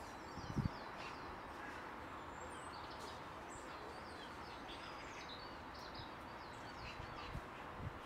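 High-pitched chirps and calls of small birds, many short notes scattered throughout, over a steady hiss of outdoor ambience. A brief soft low thump about half a second in.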